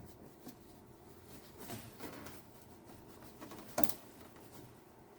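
Plastic push-pin clips being pressed into place on car trim: a few faint clicks and handling rustles, the sharpest about four seconds in.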